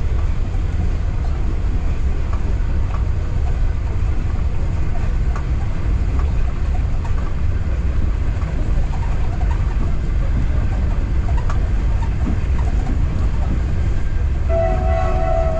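Local passenger train running along the line: a steady low rumble of wheels on rail with scattered light clicks. Near the end a train horn starts to sound, one steady held note.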